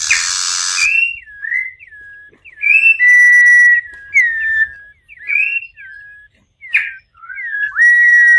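Campo troupial (corrupião) singing: repeated phrases of loud, clear whistled notes that rise and fall, with a long steady whistle about three seconds in and again near the end. A harsh, raspy note comes at the start.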